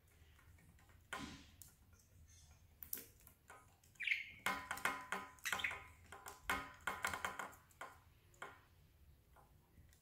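Budgerigar chirping and chattering in quick short calls, busiest mid-way, among scattered sharp clicks.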